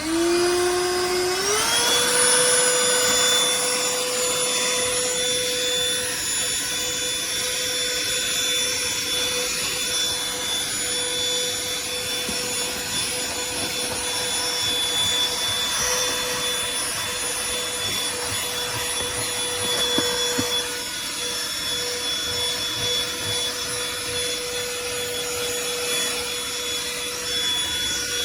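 Cordless handheld vacuum cleaner switched on: its motor whine climbs in pitch over the first second or two as it spins up, then runs steadily over a rushing airflow hiss.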